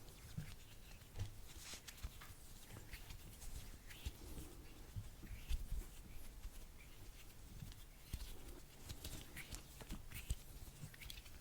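Close-microphone ASMR trigger sounds: soft, irregular clicks and brief rustles scattered throughout, with occasional low thumps.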